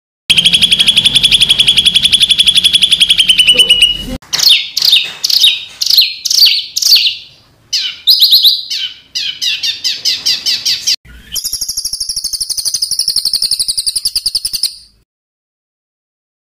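Songbird song made of rapid, harsh 'tembakan' phrases: a fast buzzy trill of repeated notes, then runs of quick down-slurred notes, then another high fast trill, in separate passages that break off abruptly.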